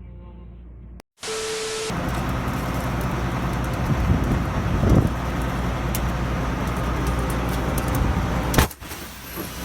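Vehicle noise: a loud, steady rushing hiss with a low rumble underneath, starting abruptly about a second in and dropping away near the end.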